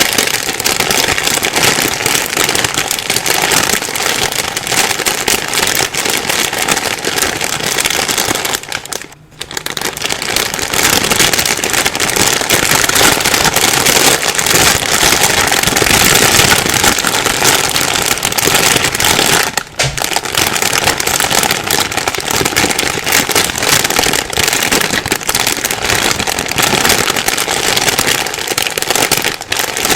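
Plastic bag being rustled and crumpled without a break, a dense crinkling crackle, with a brief pause about nine seconds in and a very short gap about twenty seconds in.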